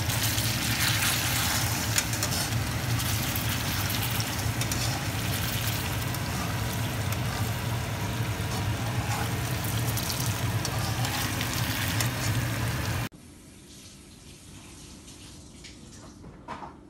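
Egg, shrimp and peppers frying in oil in a pan: a steady, crackling sizzle over a low hum. It cuts off abruptly about two thirds of the way in, leaving faint room sound with one soft knock near the end.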